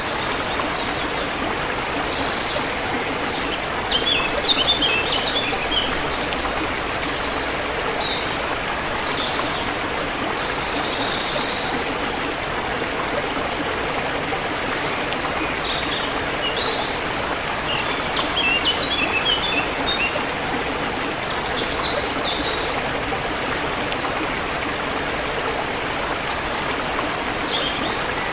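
A forest river or stream flowing steadily, with songbirds chirping over it in short bursts of high, rapid notes every few seconds.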